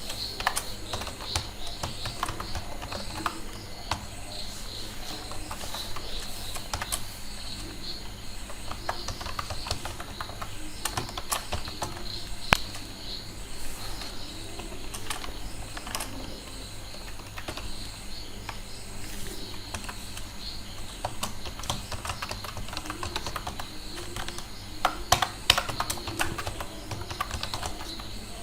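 Typing on a computer keyboard: irregular key clicks, with a quicker, louder run of keystrokes near the end.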